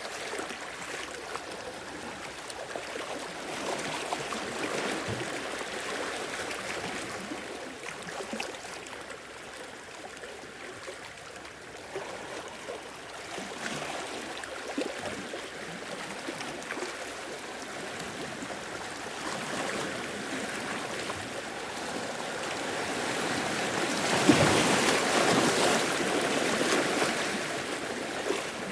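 Ocean waves washing in, the noise swelling and ebbing, with a louder wave surging about 24 seconds in.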